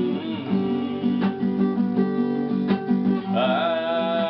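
Acoustic guitar strumming chords in a steady rhythm, with a wavering held tone, likely the singer's voice, coming in near the end.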